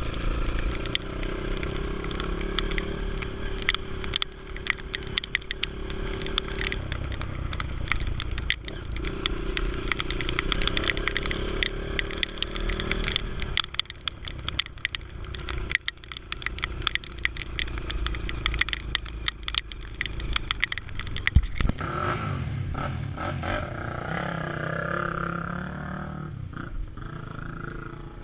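Yamaha TT-R230 trail motorcycle's single-cylinder engine running at low revs through mud, under constant clattering and scraping knocks. One loud knock comes about three-quarters of the way through.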